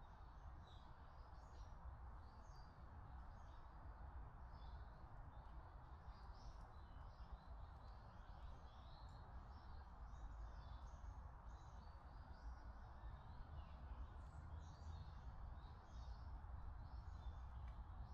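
Many small birds chirping faintly in woodland, short high calls coming thick and fast throughout, over a steady hiss and low rumble of background noise.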